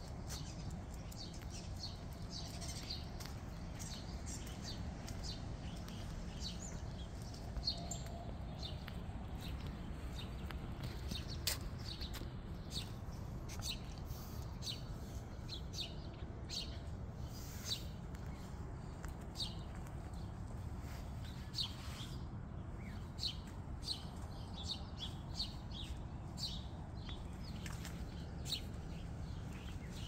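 Small birds chirping with short, high calls over and over, over a steady low background rumble.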